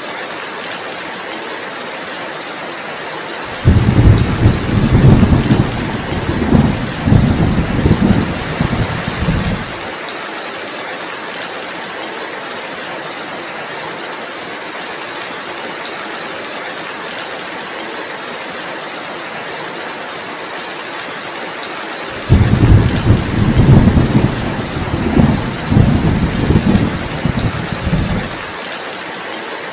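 Steady heavy rain with two long rumbles of thunder, one a few seconds in and one about two-thirds of the way through. Each rumble lasts about six seconds and starts and stops abruptly.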